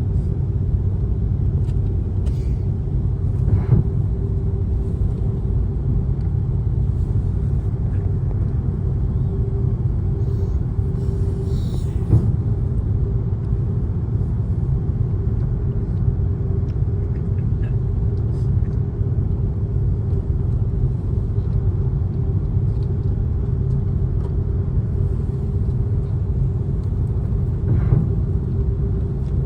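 Airliner cabin noise in flight after takeoff: a steady low engine rumble with a constant hum. There are a few faint clicks.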